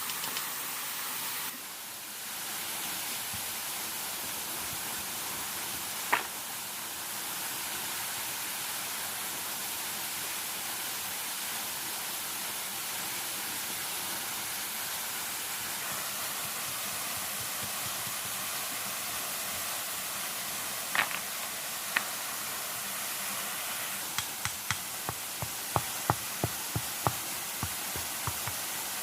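Steady rushing noise of water, even and hiss-like. A few sharp knocks or clicks break through it, with a quick irregular run of them near the end.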